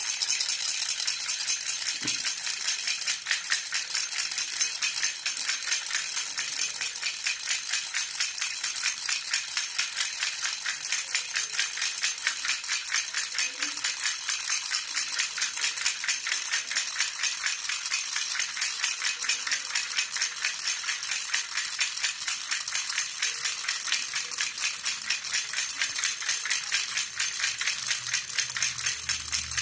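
Baby rattle (jhunjhuna) shaken fast and steadily, a continuous even jingling rattle.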